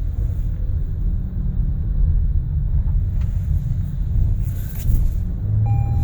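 Inside the cabin of a 2017 Toyota Sienna minivan on the move: a steady low rumble of its 3.5-litre V6 engine and road noise. A brief steady electronic beep sounds near the end.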